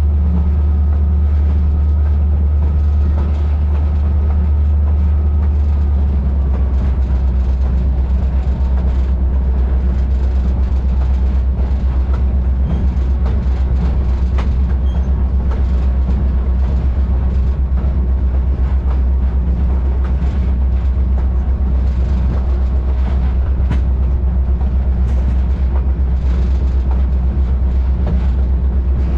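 Steady low rumble of a moving train running along the track.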